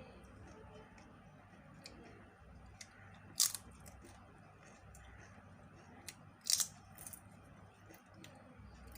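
Quiet eating sounds: a few short sharp clicks from a mouth chewing and biting, loudest about three and a half seconds in and again twice around six and a half to seven seconds.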